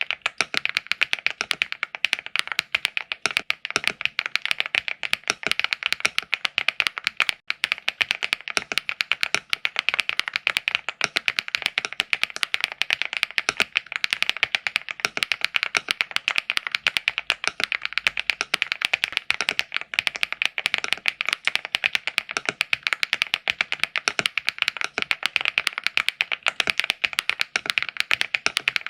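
Fast, continuous typing on a LEOBOG AMG65 mechanical keyboard: a dense run of key clacks, several a second, with a brief gap about seven seconds in.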